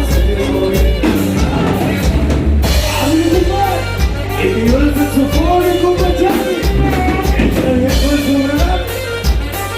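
Norteño band music played live on stage, with a melody line gliding over a steady pulsing bass and drums.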